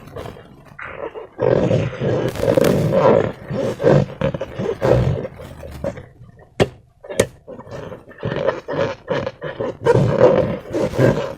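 Slime-filled rubber balloons being squeezed and worked by hand, giving long rubbery, squelching, buzzing noises. Two sharp clicks a little over halfway through.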